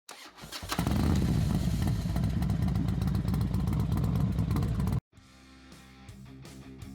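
Motorcycle engine running loud and rough for about five seconds, cutting off abruptly, followed by quiet guitar music.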